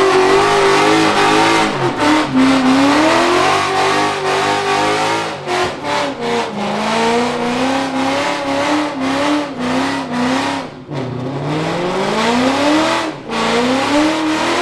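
A car engine revving hard and repeatedly, its pitch climbing and dropping, with a rushing tyre noise underneath: a car spinning its wheels in a burnout with traction control switched off. Past the middle the revs fall low, then climb steadily for about two seconds.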